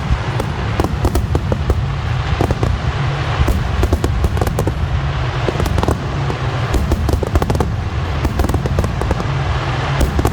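Aerial fireworks bursting in a dense, continuous barrage: many sharp bangs and crackles one after another over a deep, steady rumble.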